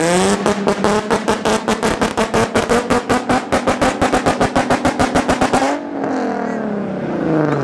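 Sports car engine with a loud aftermarket exhaust, revved up quickly and held on the rev limiter, a rapid stutter of about eight pulses a second for over five seconds. Near the end the revs drop and the engine falls back toward idle.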